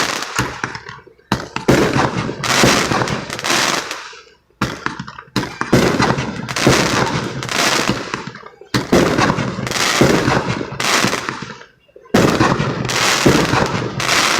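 Fireworks going off in quick succession: a sharp bang about once a second, each trailing off in a fading crackle, with two brief lulls.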